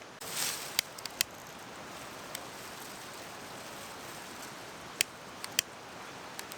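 Steady rush of a mountain stream, with a brief rustle near the start and a handful of sharp clicks, the two loudest about five seconds in.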